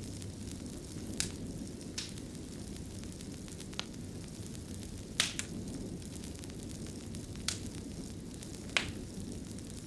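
Fire burning in a fireplace: a steady low flame noise with sharp, irregular crackles and pops, six of them, the loudest about five seconds in.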